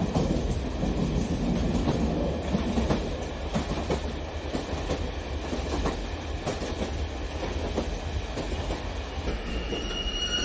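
Electric model train rolling along its track: a steady rumble of wheels and motor with frequent sharp clicks as the cars pass over the rail joints. Near the end a steady high whine sets in.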